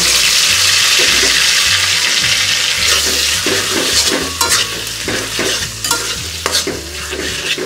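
Mashed boiled green papaya sizzling loudly as it hits hot mustard oil and fried onions in an aluminium karai, then a spoon stirring it and scraping against the pan. The sizzle is loudest in the first few seconds; from about three seconds in, repeated scraping strokes take over.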